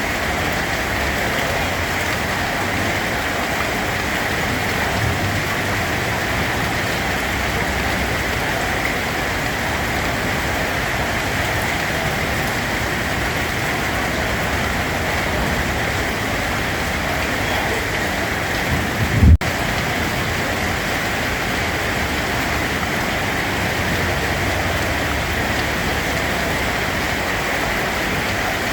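Steady rain falling, an even hiss of drops with no let-up. About two-thirds of the way through comes a brief low thump, followed by a momentary dropout in the sound.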